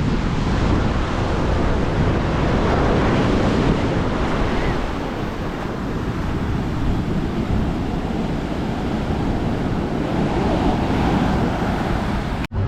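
Sea waves washing onto a sandy beach, with wind buffeting the microphone. The sound drops out briefly near the end.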